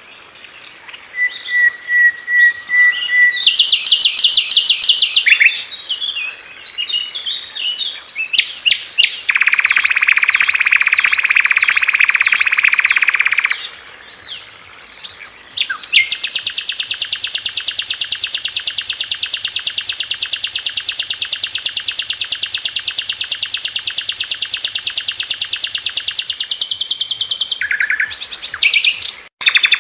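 Sikatan londo (an Indonesian flycatcher) singing: varied high chirps and whistled phrases, a buzzy warbling trill lasting a few seconds near the middle, then one long, very rapid rattling trill of about ten seconds in the second half.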